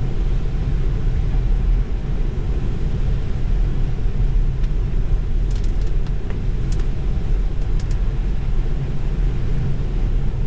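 Steady low rumble of a Tesla driving on a wet road in the rain: tyre and road noise, with a few faint ticks.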